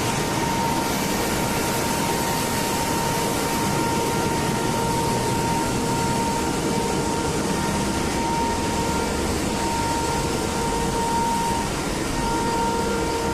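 Steady machine noise with a constant whine of several fixed pitches, a machine running at an even speed.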